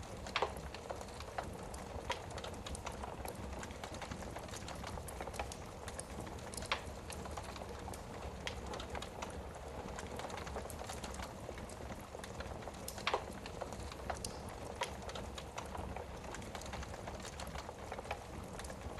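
Wood fire burning in a fireplace, crackling with irregular sharp pops over a steady low hiss. A few pops stand out louder, the strongest just after the start and about two-thirds of the way through.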